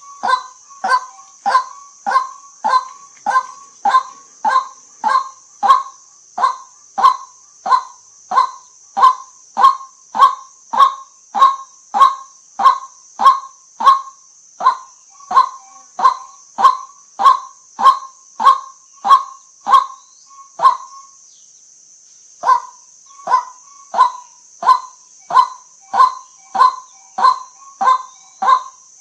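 White-breasted waterhen giving its repeated "kwak" call, short calls at a little under two a second, with one brief pause past the middle before the series starts again.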